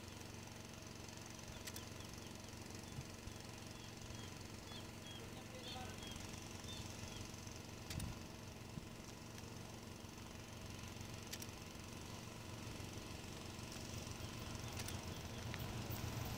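Faint, steady trackside background with a run of faint high chirps a few seconds in. An approaching passenger train's low rumble grows louder over the last few seconds.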